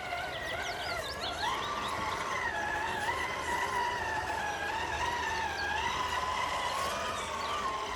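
1/10-scale RC rock crawler's electric motor and geartrain whining as it crawls, the pitch wavering up and down with the throttle.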